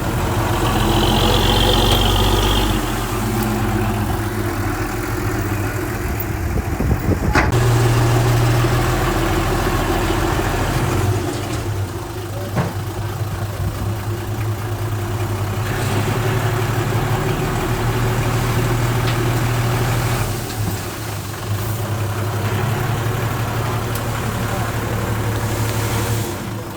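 Diesel engine of earthmoving machinery running, its load and pitch shifting every few seconds, with a few sharp clanks. A brief high squeal sounds in the first couple of seconds.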